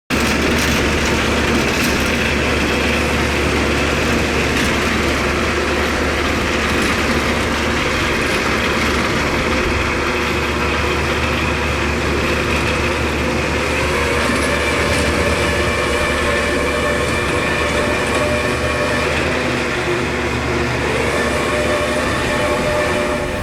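Heavy farm machinery running steadily under load: a tractor or forage-harvester diesel engine with a high mechanical whine over it.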